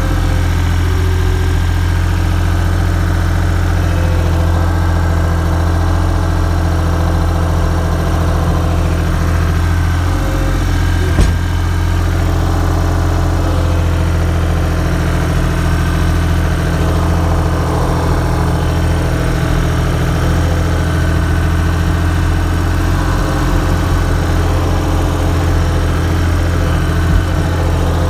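An engine running steadily at an even speed, with a single sharp knock about eleven seconds in.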